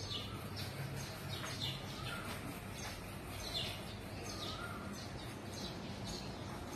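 Small birds chirping in short, falling calls every second or so over a low, steady background hum.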